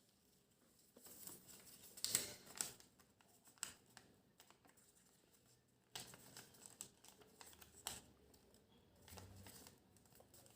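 Faint crinkling and rustling of origami paper being folded and creased, in short scattered bursts, the loudest about two seconds in.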